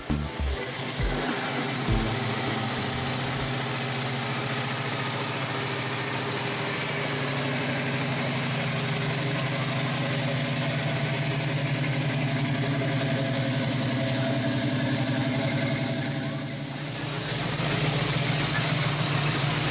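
Classic car engine running steadily at idle, with a short dip about three-quarters of the way through before it comes back slightly louder.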